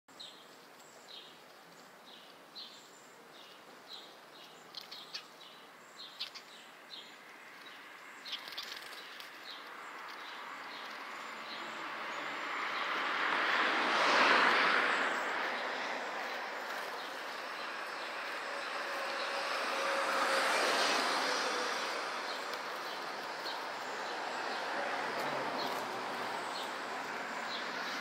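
Small birds fighting on the ground, giving sharp repeated chirps through the first eight or nine seconds. Then the noise of passing traffic swells up twice, loudest about halfway through and again about three quarters of the way in.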